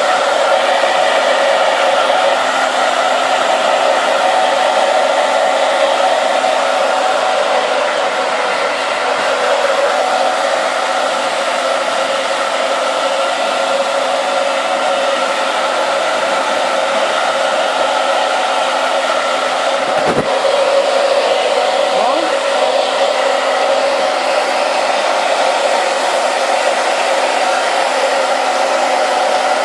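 Hair dryer running steadily, an even rushing blow with a steady whine in it; a single short knock about two-thirds of the way through.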